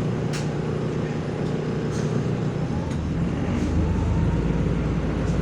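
Inside a MAZ-105 articulated city bus on the move: steady engine drone and road noise with a few light rattles. About three seconds in, a deeper engine note comes in and the sound grows a little louder.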